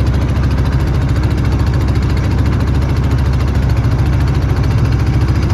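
Boat engine running steadily with a deep, even throb.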